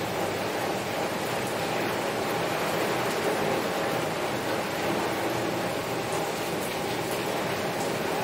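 Heavy rain falling steadily on a window: a dense, even wash of patter with faint individual drop ticks.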